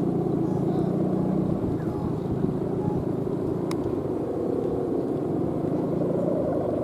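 Steady low droning hum of a Balinese kite's hummer (guangan) buzzing in strong wind, with wind rushing over the microphone.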